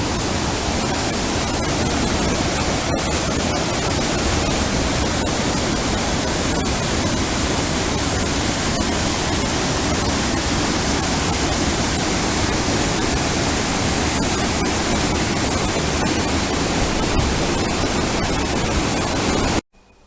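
Rushing water: a loud, steady, even rush with no breaks or pulses, which cuts off abruptly just before the end.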